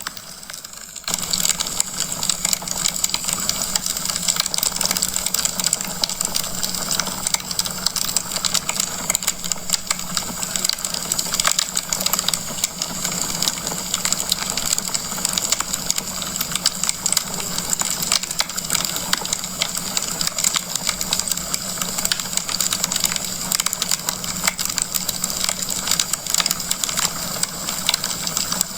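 Wood fire crackling in a fireplace: dense, rapid pops and crackles over a steady hiss. It is briefly quieter for about the first second.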